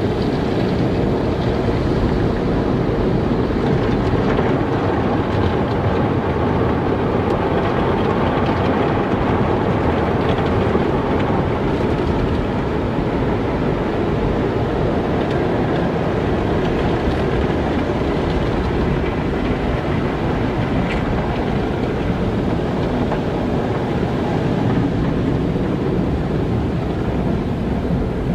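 Car wash running: a steady, low rushing noise of water and machinery that holds even throughout, with no distinct strokes or pauses.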